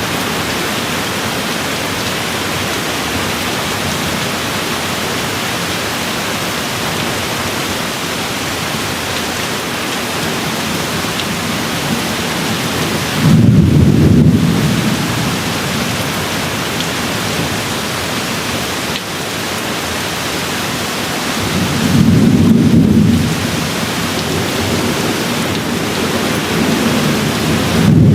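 Steady rain falling, with distant thunder rumbling low twice, once about halfway through and again about two-thirds through; the rumbles are the loudest sounds.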